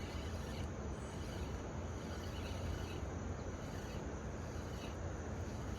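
Steady outdoor background noise dominated by a low rumble, with a few faint high ticks.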